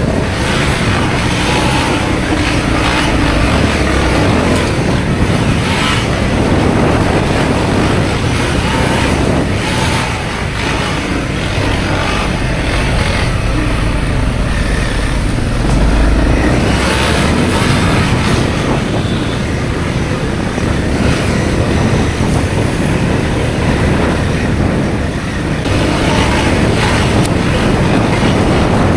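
Motorcycle engine running while being ridden, buried in a dense, steady rush of wind and road noise.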